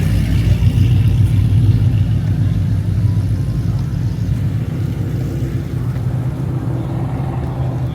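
A car or truck engine with a loud exhaust running with a deep, steady rumble, easing off slightly after about three seconds.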